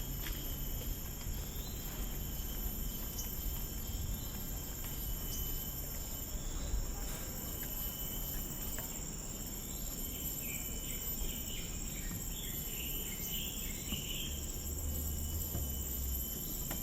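Forest insects droning in a steady, high-pitched chorus, with a bird calling in a quick cluster of short chirps about two-thirds of the way through.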